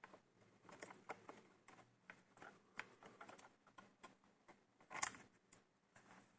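Faint scattered clicks and taps from handling a laptop's memory module and plastic parts, with a louder click about five seconds in.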